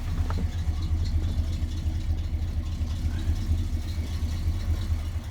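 Square-body 3500 dually's 350 small-block V8 idling cold with an unfixed choke, a steady low pulsing beat; it is running rich but holding its idle without stalling.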